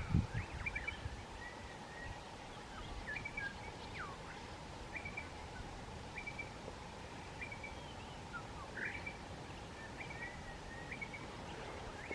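Wild birds calling: short chirps repeated every second or so, with a few gliding whistles, over a faint steady low rumble of background noise.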